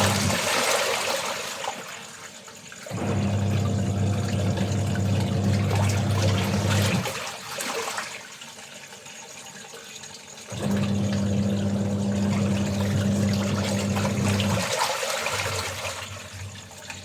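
Washing machine in its wash cycle. The motor hums in two spells of about four seconds each. Between them comes a rushing, sloshing water sound.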